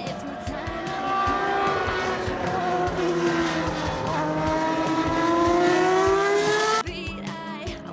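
Racing engine on track, its revs dropping and then climbing steadily as it accelerates, growing louder. It cuts off suddenly about seven seconds in, followed by quieter engine noise.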